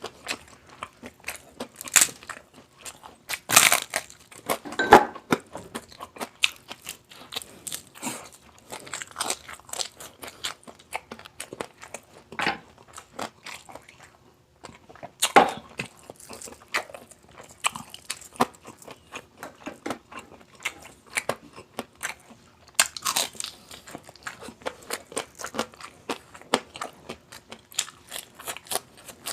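A person eating close to the microphone: steady chewing with many sharp crunches, typical of biting into the crackling skin of crispy pata (deep-fried pork knuckle), with a few louder crunches along the way.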